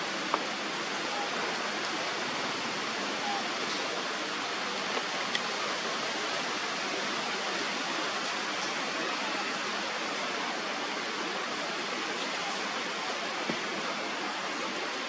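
Steady rushing hiss with no pitched calls, broken only by a few faint ticks.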